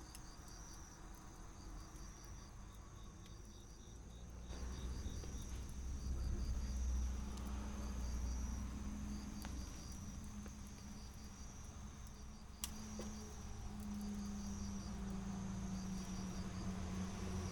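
Crickets chirping in steady, evenly pulsed high trills. A low rumble swells in about four seconds in and carries on underneath, and there is one sharp click about two-thirds of the way through.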